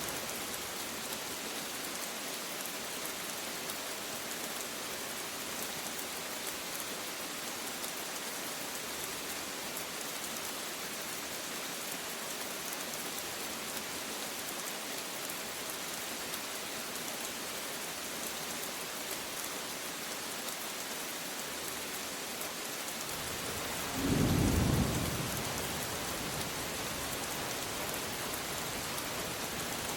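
Steady rain hissing down, with one brief low rumble of thunder about four-fifths of the way through.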